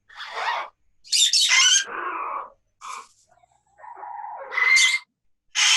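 Parrots calling: a string of about six harsh squawks and chattering calls with short gaps between them, the loudest about a second in and again just before five seconds.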